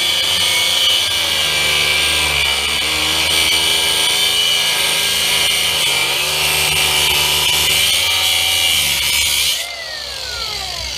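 Electric power tool cutting, its motor pitch dipping several times under load. Just before the end it is switched off and winds down in a falling whine.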